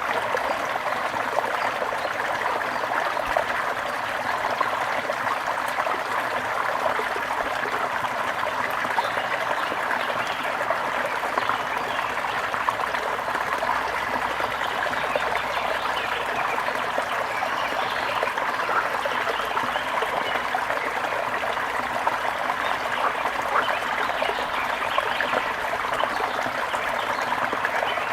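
Steady running water with a continuous trickling babble.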